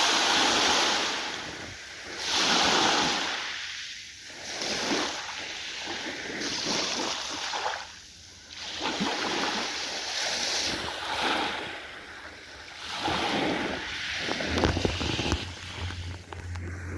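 Ocean waves breaking and washing in, a rushing hiss that swells and fades every two to three seconds. A low steady hum joins near the end.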